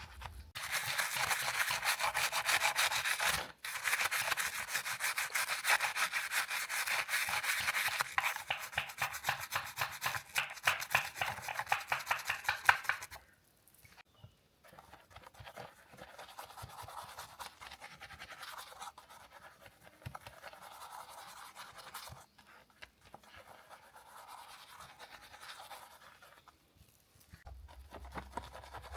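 Fast, continuous scrubbing strokes on a 1:18-scale model car. They are loud for about the first thirteen seconds, then turn softer and more broken.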